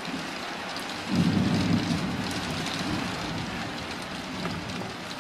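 Heavy rain falling steadily in a thunderstorm, with a low rumble of thunder that swells about a second in and fades over the next couple of seconds.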